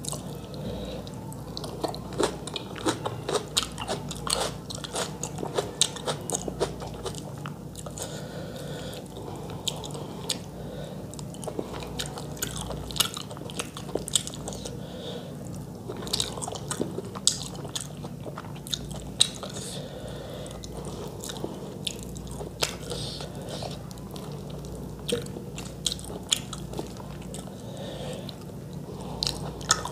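Close-miked chewing and wet mouth clicks of someone eating rice and chicken curry with her fingers, with her fingers gathering rice on a steel plate. Many short sharp clicks come all through.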